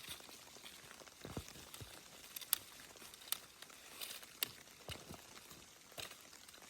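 Faint, scattered short clicks and crackles, about one a second, over a low hiss.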